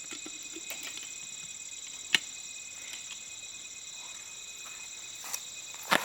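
Crickets and other night insects trilling steadily in a high, continuous chorus. A few sharp clicks or knocks break in, the loudest about two seconds in and another near the end.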